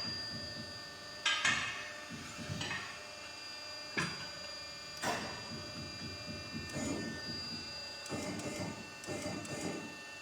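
Steel tyre lever prying the bead of a tubeless truck tyre over the wheel rim: a few sharp metal knocks against the rim with scraping and rubbing of rubber and metal between them.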